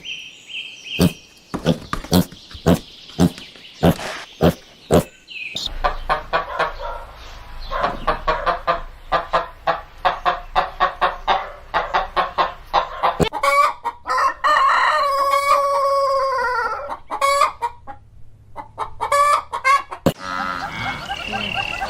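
Chickens clucking in quick, busy runs, with a rooster crowing once, one long call about two-thirds of the way in. The first few seconds hold a series of sharp clicks or knocks before the clucking begins.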